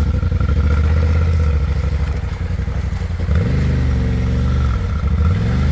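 Adventure motorcycle engine running at a low, steady idle, then revved up twice, about three seconds in and again near the end, as the bike is driven forward through a fast-flowing river ford by a rider walking beside it.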